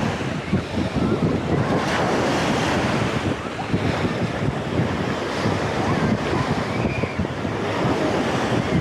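Sea waves washing onto the shore in a steady wash, with wind buffeting the microphone.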